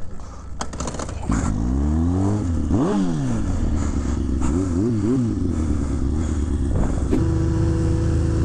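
Kawasaki 636 inline-four motorcycle engine revving up and down several times, then running steadily from about seven seconds in. The engine is being kept alive after a push start on a weak battery.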